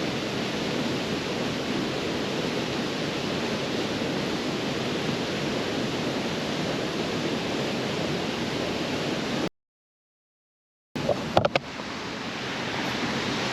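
Creek waterfall rushing steadily. It cuts to dead silence for about a second and a half some nine and a half seconds in, and a few sharp clicks come as the rushing returns.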